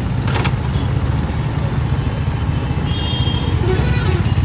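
Scooter engine running steadily under load, with road noise, as it pushes a stalled auto rickshaw that has not started. There is a short clatter about a third of a second in.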